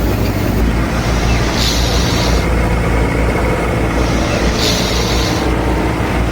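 A small machine running steadily with a low hum, while a hiss swells and fades about every three seconds.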